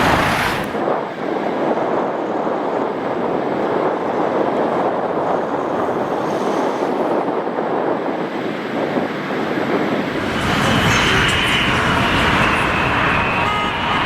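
Jet airliner engines passing close by as a loud, steady rushing noise. About ten seconds in it swells, and a steady high engine whine comes in over it.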